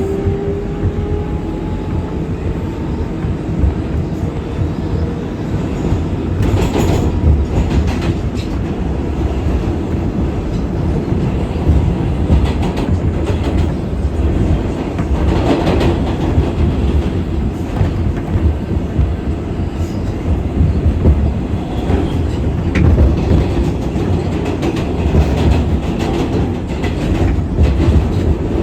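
R188 subway car of the 7 train running at speed, a steady rumble of wheels on rail with occasional sharper clacks as it crosses rail joints and switches.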